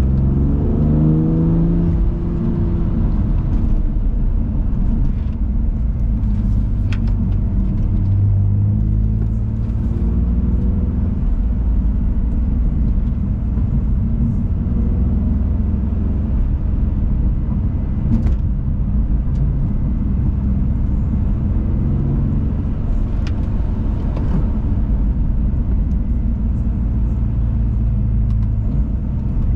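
BMW M2 Competition's twin-turbo straight-six driving hard, its pitch rising and falling repeatedly with throttle and gear changes, over a steady rumble of road noise. A few sharp clicks break through.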